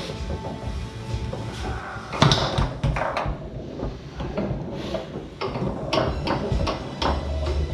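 Tornado foosball table in play: an irregular run of sharp clacks as the ball is struck by the rod men and knocks against the table, with the rods sliding and banging. The loudest knock comes about two seconds in.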